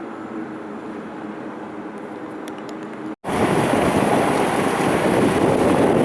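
Steady indoor room hum with a few faint ticks. About three seconds in, the sound drops out for an instant, then a much louder steady rushing noise takes over, like street noise and wind on the microphone.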